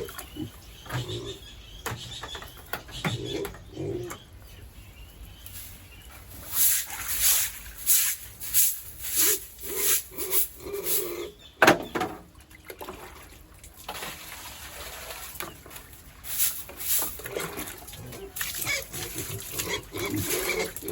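Pigs grunting, mixed with many short sharp smacking and clacking noises, with one louder knock about twelve seconds in.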